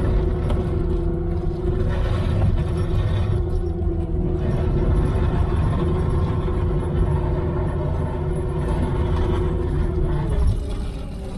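A truck engine running steadily, with a steady whine over it that drops away near the end.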